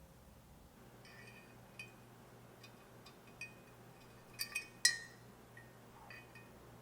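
Small metal parts clinking together: a handful of light taps spread over a few seconds, each ringing briefly at the same pitches, the loudest a quick cluster of three about four and a half to five seconds in.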